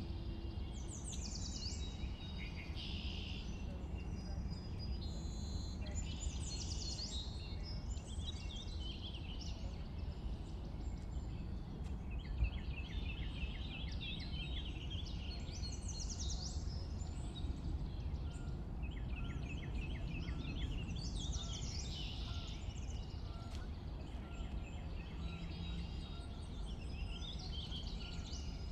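Spring songbirds, among them a warbler and a sparrow, singing in short overlapping phrases, with rapid trills of repeated notes about 13 and 20 seconds in. A steady low rumble runs underneath.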